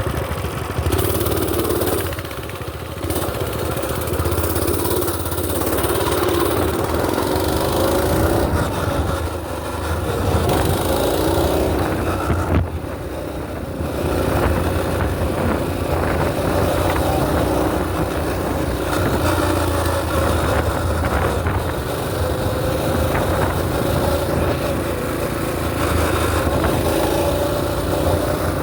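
Mini bike's small pull-start engine running under way, its pitch rising and falling as the throttle is worked. It eases off briefly about two seconds in and again for a couple of seconds around the middle.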